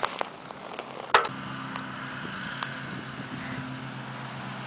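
A few light clicks and one sharp click about a second in, then a motor running with a steady low hum.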